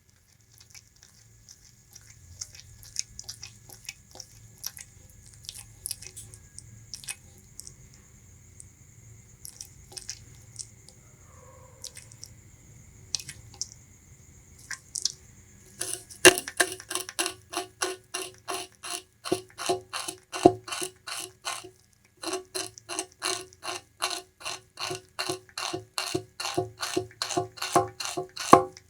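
Bamboo rat chewing sugarcane. For the first half there are only scattered soft clicks of gnawing. Then, about halfway through, a fast, even run of loud crunching chews sets in at about five a second, pausing briefly near the end.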